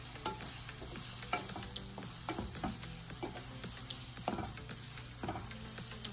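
Small scallops sizzling in oil in a pan while a wooden spatula stirs them, with frequent light scrapes and clicks of the wood against the pan.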